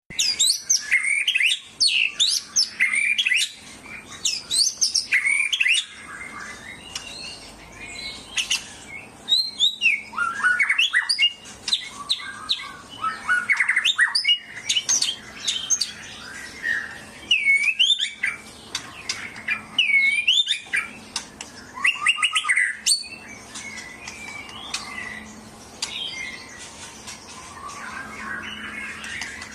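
Songbird singing a rapid, varied song of sweeping chirps and whistles in bursts with short pauses, quieter for a few seconds near the end.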